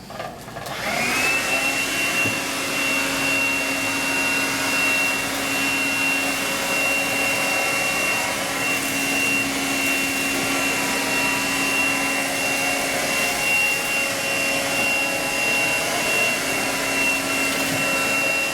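Eureka Quick Up 96H 6-volt cordless stick vacuum switched on about a second in, its motor whine rising briefly and then running steadily with a lower hum beneath.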